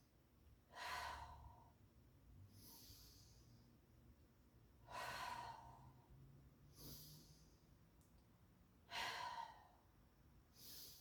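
A woman breathing slowly and deeply while holding a yoga pose, faint and close to the microphone. There are three deliberate breaths about four seconds apart, each a longer breath out followed by a shorter, hissier breath in.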